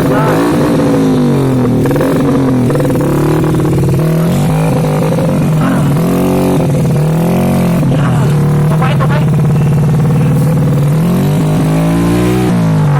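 Off-road motorcycle engine revving up and down again and again under throttle, over a steady low engine drone.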